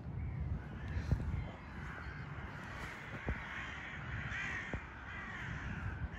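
Birds calling over and over, with a few sharp clicks about one, three and five seconds in.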